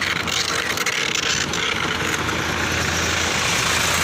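Motorcycle engine running steadily at idle, under a steady hiss.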